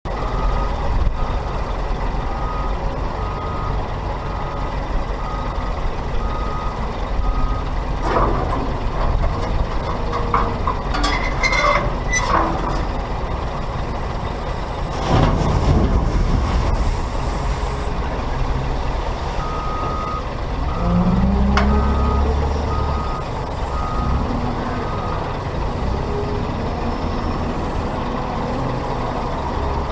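Heavy diesel machinery running at a sand loading site, a tipper truck and a wheel loader, with a reversing alarm beeping about once a second for the first several seconds and again after about twenty seconds. A few knocks come around ten to twelve seconds in, a short burst of hiss follows about halfway, and an engine revs up a little past twenty seconds.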